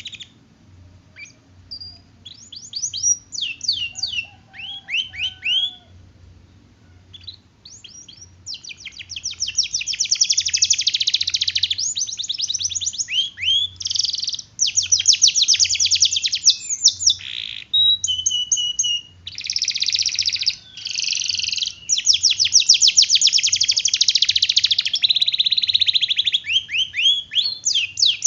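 Domestic canary singing: scattered short chirps and swooping notes at first, then from about a third of the way in long, very rapid rolling trills that run almost without a break.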